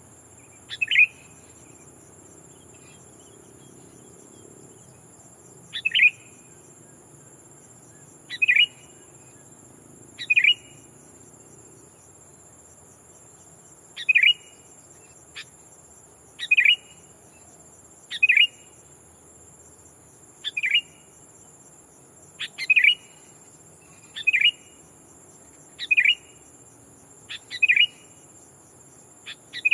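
Sooty-headed bulbul giving about a dozen short, loud calls, roughly one every two seconds: a decoy bulbul calling out to rival wild bulbuls. Under the calls runs a steady, high insect drone.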